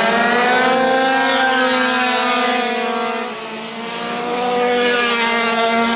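Several minimoto racing pocket bikes' small two-stroke engines running at high revs as a group, a high-pitched buzzing whine of several overlapping tones. It fades a little about halfway through, then builds again.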